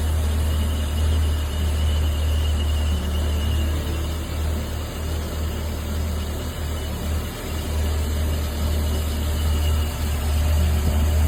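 A car engine running steadily with a heavy low rumble and a faint, steady high-pitched whine above it.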